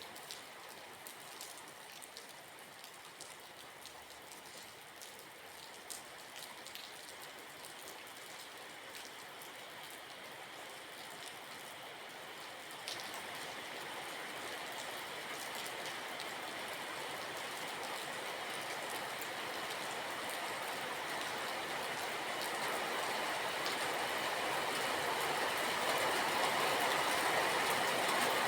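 Steady rain, an even hiss with scattered single drop ticks, growing steadily louder with a small jump about halfway through.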